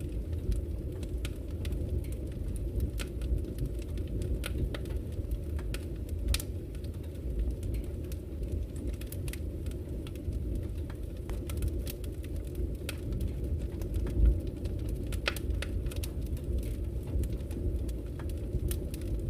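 Wood fire burning in a fireplace: a steady low roar with irregular sharp crackles and pops from the burning logs.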